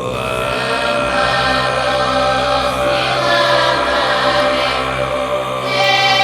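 Throat singing: a steady low drone with an overtone melody shifting slowly above it.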